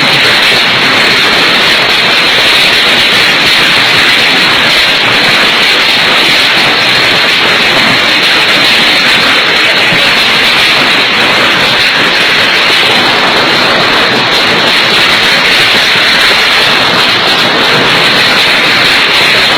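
Hailstorm: hail and rain coming down hard, a loud, steady, dense patter and hiss with no let-up.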